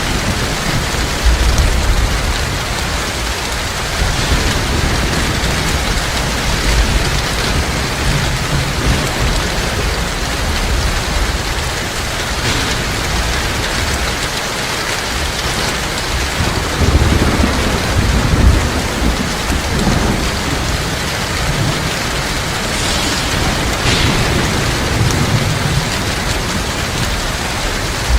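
Heavy rain falling steadily, with low rolls of thunder rumbling several times, the loudest a little past the middle.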